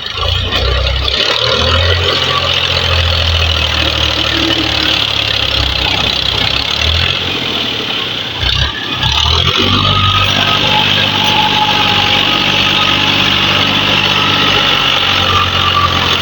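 Tractor engine running steadily with broad mechanical noise. The sound dips briefly about nine seconds in, then runs on steady with a clearer engine hum.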